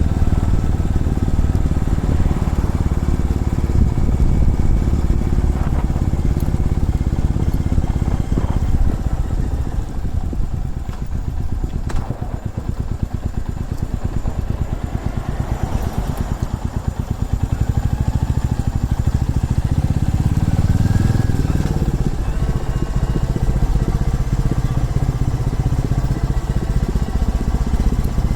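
Motorcycle engine running while riding. The engine note eases off around the middle, then rises in pitch as the bike accelerates about two-thirds of the way in.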